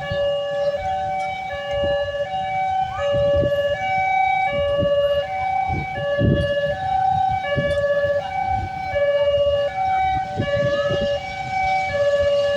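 A two-tone electronic warning alarm alternating between a high and a low tone about every half second, with irregular low thumps underneath.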